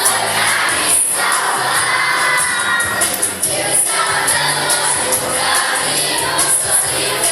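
Children's choir singing together over instrumental accompaniment, with steady low notes under the voices.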